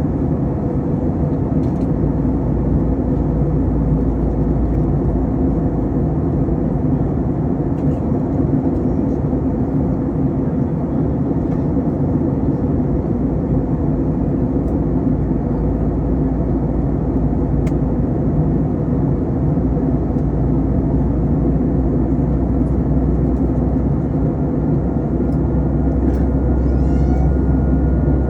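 Steady drone of an Airbus A321 in flight during descent, engines and rushing air heard from the passenger cabin, with a low steady hum running through it. Near the end a faint, steady high tone joins in.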